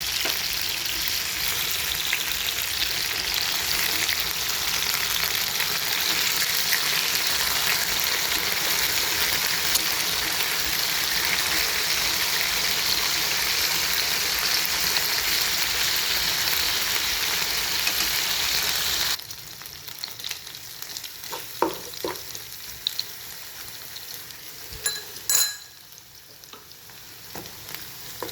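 Tuna frying in hot oil in a pan, a steady loud sizzle. About two-thirds of the way in the sizzle drops suddenly to a much quieter sizzle, with a few light clinks and knocks of utensil on pan.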